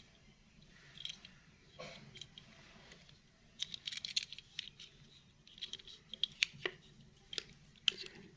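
Quick, light clicks and crackles of small hard objects being handled, coming in irregular clusters and busiest in the second half.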